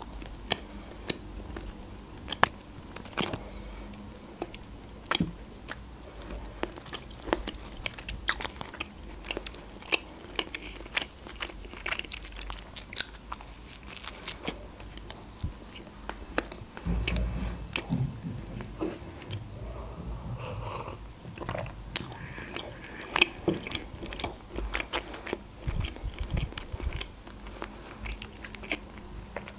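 Close-miked mouth sounds of a person biting and chewing pieces of a large soft jam bun, with many small irregular mouth clicks.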